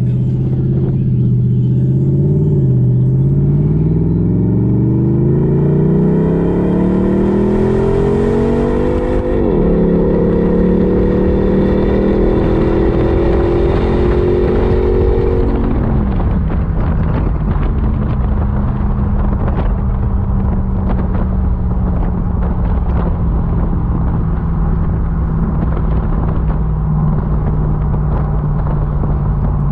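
Jeep SRT8's V8 through a Gibson cat-back exhaust, accelerating hard. The exhaust note climbs, dips briefly at a gear change about a third of the way in, and climbs again. About halfway through it falls away as the throttle is lifted, then settles into a steady low drone while cruising.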